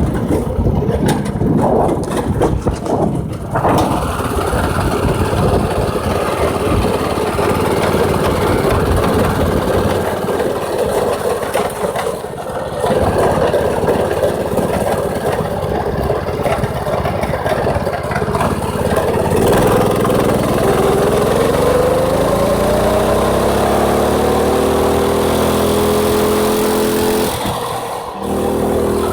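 Predator 6.5 HP single-cylinder go-kart engine running, mixed with wind rush. About two-thirds of the way in, its pitch climbs steadily for several seconds as the engine speeds up, then holds at high speed, with a brief drop-off near the end.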